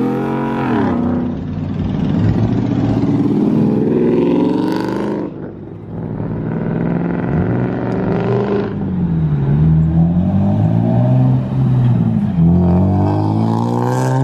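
A car engine revving hard, its pitch climbing and then dropping back several times.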